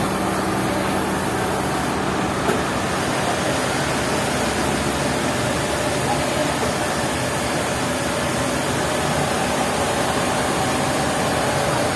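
Sawmill machinery running steadily, a constant mechanical drone with no change in load.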